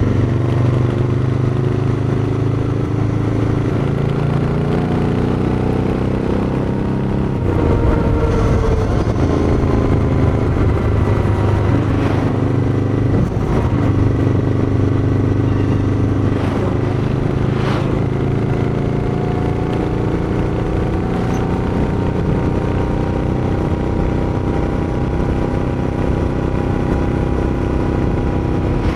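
Royal Enfield Interceptor 650's 648 cc parallel-twin running at a steady low idle through its exhaust. The pitch slowly rises and falls as the throttle is eased open and shut, and there are a few sharp clicks around the middle.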